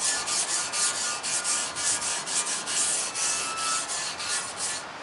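Rapid back-and-forth hand scrubbing of rust from a vinegar-soaked lathe part, about three strokes a second, stopping shortly before the end.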